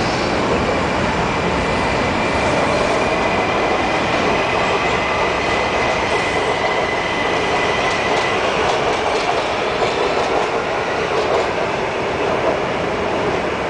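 Boxcars of a Norfolk Southern freight train rolling past on curved track: steady wheel-on-rail rumble and clatter, with a thin, high wheel squeal about two seconds in that fades out around eight seconds.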